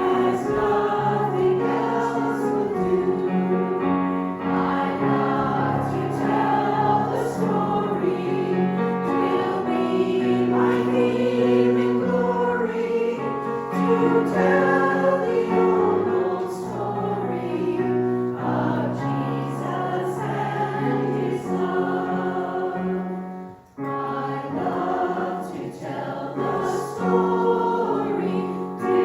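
A small choir singing a hymn in harmony, several voices holding sustained notes, with a short pause between phrases about 24 seconds in.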